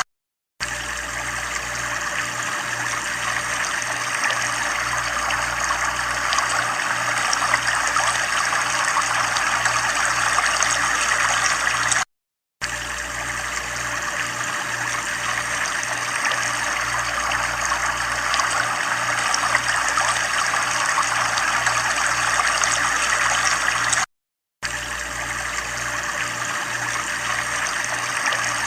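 Steady running water, a trickling, stream-like rush, that cuts out to silence for about half a second three times, roughly twelve seconds apart.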